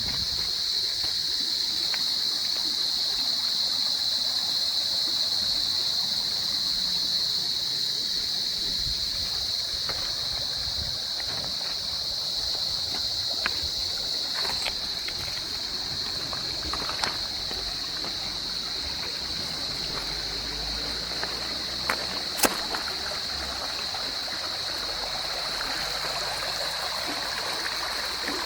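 Stream water flowing over rocks: a steady rushing with a high hiss on top. A few sharp clicks break through, the loudest about three quarters of the way in.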